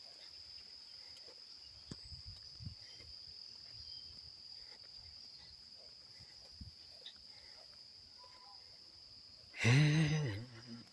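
Crickets trilling steadily at a high pitch. Near the end comes a loud brief pitched call, rising then falling.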